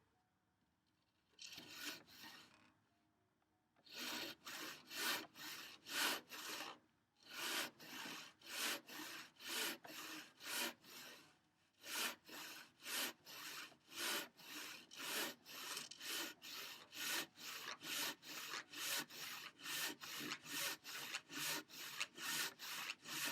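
Handsaw cutting through a thick timber workbench leg, with a single stroke, a short pause, then steady rhythmic full-length strokes about two a second.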